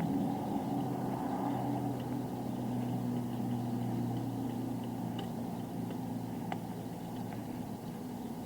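A motor vehicle engine running with a steady low hum over road noise; the lowest part of the hum fades out about seven seconds in.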